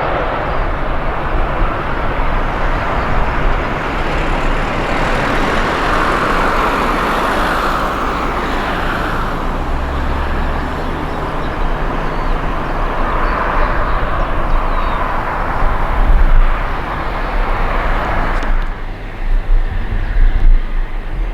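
Jet airliner engines, a steady noise that swells twice as an aircraft moves past. About eighteen seconds in it cuts off abruptly, leaving wind buffeting the microphone.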